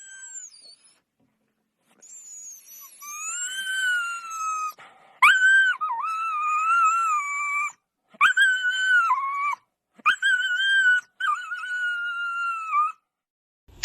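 A dog whining: a run of high, drawn-out whimpers, each a second or two long, wavering slightly in pitch.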